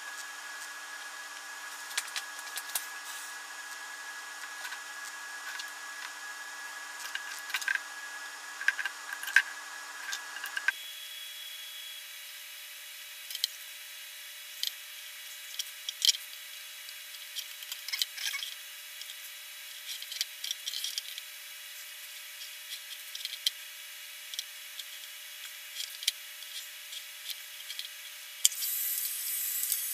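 Small hot-air blower running with a steady whine that shifts pitch about ten seconds in, as a vinyl skin sticker is heated to stretch it into place. Light scattered taps and rubbing from handling the sticker, and a louder hiss comes in near the end.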